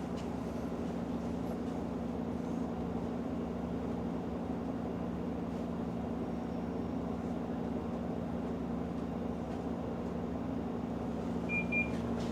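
City bus diesel engine running with a steady low drone. A short high double beep sounds near the end.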